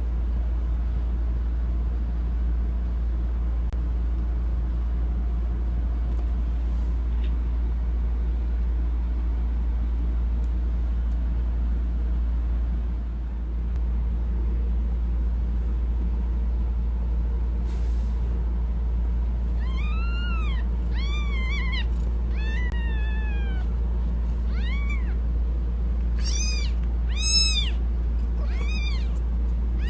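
Newborn kittens mewing: about eight thin, high-pitched cries, each rising then falling in pitch, starting about two-thirds of the way in and coming faster near the end, over a steady low hum.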